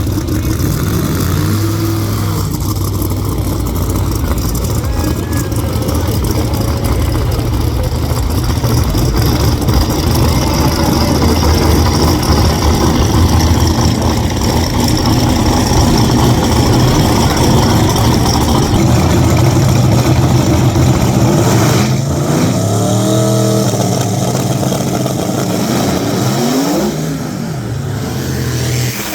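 Corvette V8 engine running hard at speed, a loud steady drone, then revs climbing again and again in the last several seconds as it pulls through the gears.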